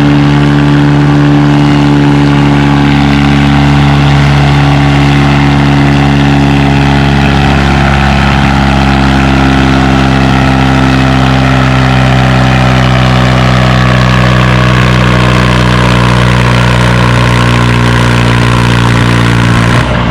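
John Deere 435's two-cylinder two-stroke GM diesel running loud and steady under full load while pulling the weight-transfer sled, its pitch sagging slightly near the end as the load builds.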